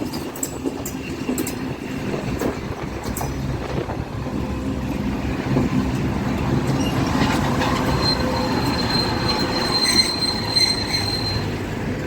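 Freight train passing, wheels clicking over the rail joints at first, then a thin, steady high-pitched wheel squeal for a few seconds near the end.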